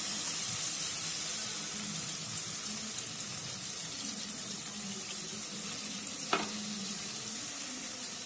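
Spice paste and diced carrots sizzling in hot oil in a steel kadai while being stirred with a metal spatula, with one sharp tap about six seconds in.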